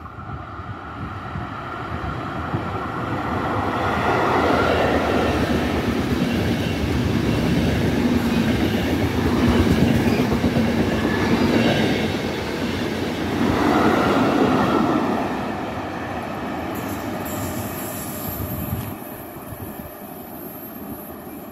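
Trenitalia Intercity train running along the rails past the platform, its rumble and wheel clatter building over the first few seconds, staying loud for about ten seconds, then dying away.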